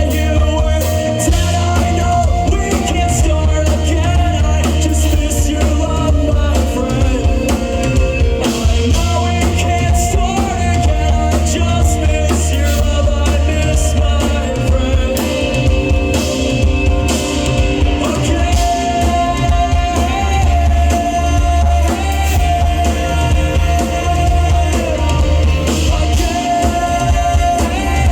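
Live rock band playing a song: a lead vocal over drum kit, guitar and a heavy, steady bass line.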